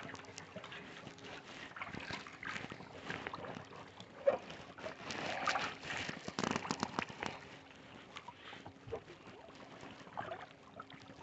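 Kayak paddle strokes in lake water: uneven splashing and trickling with small knocks, busiest in the middle.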